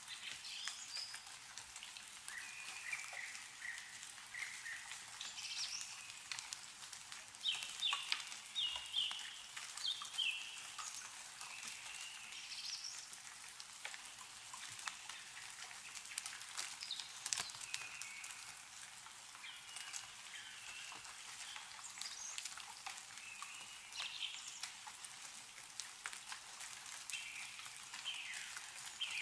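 Meltwater dripping from snow-covered trees: a constant patter of small drops. Small birds chirp in short calls throughout, most busily a quarter of the way in.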